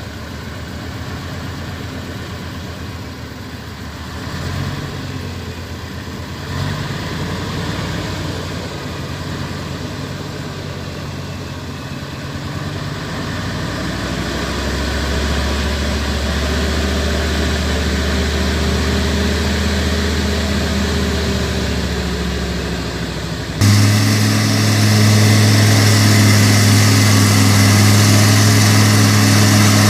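Heavy logging truck's engine running steadily under load, the sound slowly growing louder. About three-quarters of the way through it changes abruptly to a louder engine note of a different pitch.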